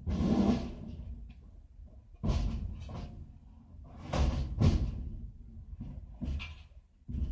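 A series of heavy knocks and thuds, about six over several seconds, with two close together around the middle.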